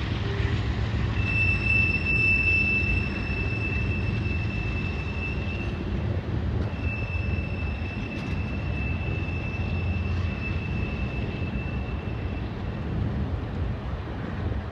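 BNSF freight train rolling past, its locomotives giving way to freight cars, with a steady low rumble of wheels on rail. A high, steady squeal from the wheels on the curved track sounds for several seconds, breaks off briefly and comes back for several seconds more.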